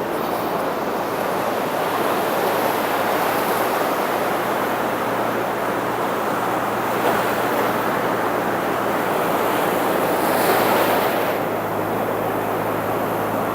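Atlantic surf washing steadily onto the beach, with one wave breaking louder about ten seconds in.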